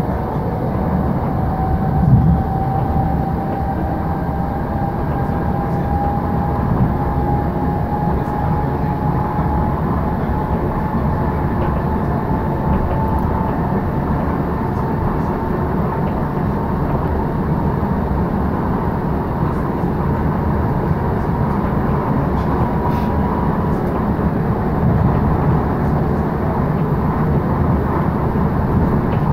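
Moving passenger train heard from inside the carriage: a steady rumble of the wheels on the track with a thin whine that rises slowly in pitch as the train gathers speed. A single knock comes about two seconds in.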